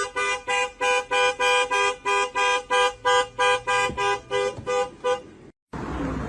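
Car horn sounding in rapid short two-tone beeps, about three a second, stopping about five seconds in. After a brief silence a different, noisy background begins.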